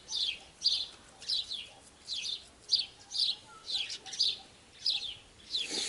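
A small bird chirping repeatedly: short, high, falling chirps about twice a second.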